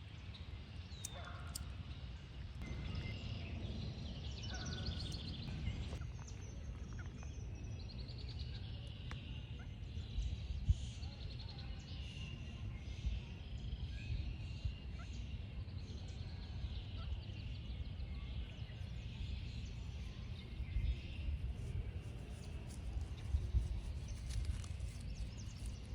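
Several wild birds chirping and trilling, with a few quick rattling trills about three to five seconds in and again around eight seconds, over a steady low outdoor rumble.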